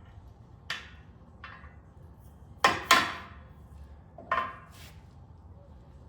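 Five hammer blows on metal, each with a short ring; the two loudest come close together near the middle. A brass-headed mallet is seating the Bobtach pivot hardware on a Bobcat T190 skid steer.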